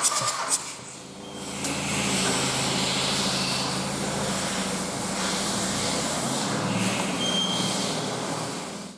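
Volkswagen AXR 1.9 TDI four-cylinder turbodiesel engine running steadily on a test stand, building up in the first two seconds and cutting off suddenly near the end.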